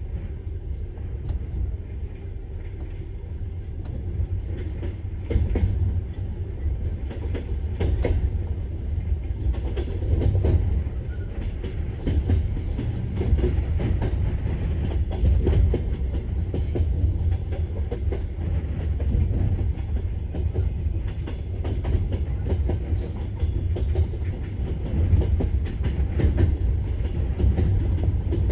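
Passenger train carriage running on the rails: a steady low rumble with irregular clattering knocks of the wheels over the track. It grows louder over the first few seconds as the train gathers speed out of the station.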